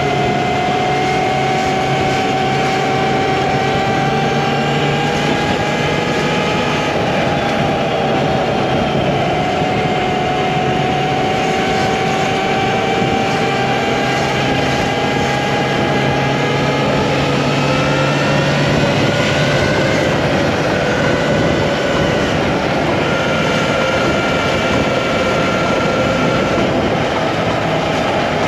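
Talaria MX5 electric dirt bike's motor whining under way over steady wind and tyre noise, its pitch drifting slowly up and down with speed. Near twenty seconds in the whine climbs, then drops away.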